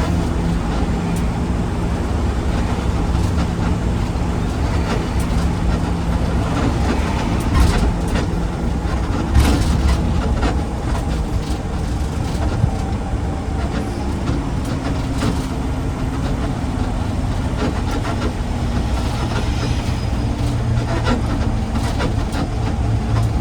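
Garbage truck driving, its heavy diesel engine running steadily, with rattling and a few sharp knocks and clanks along the way.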